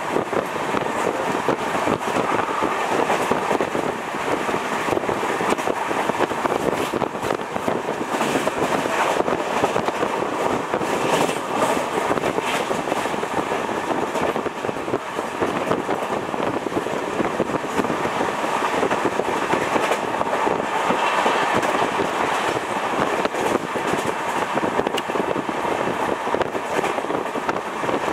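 Running noise of an Indian Railways train at speed, heard from aboard: a steady rumble of wheels on rails, broken by frequent clicks and rattles.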